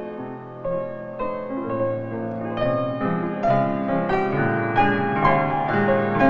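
Background piano music, soft and slow, with notes struck about every half second to second.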